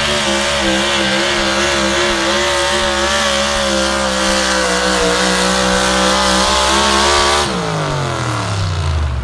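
Truck or tractor pulling engine running hard at high, nearly steady revs under load, then the revs fall away about seven and a half seconds in, the pitch sliding down.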